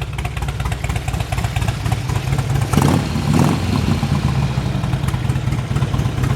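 2005 Harley-Davidson Road King's V-twin idling through Rinehart true dual exhaust, with two quick throttle blips about three seconds in.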